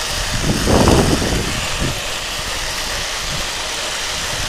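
Steady rushing noise of a sky cycle ride along a high cable, with a louder swell about a second in.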